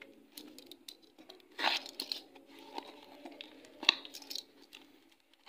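A parcel's packaging being torn open and crinkled by hand, in irregular rustles and rips, with a louder tear about a second and a half in and a sharp crackle near four seconds.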